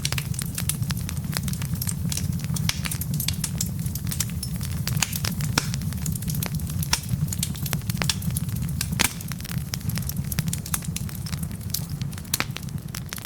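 Wood logs burning in a fireplace, crackling with frequent sharp pops over a steady low rumble of the flames. A more distinct pop comes about nine seconds in.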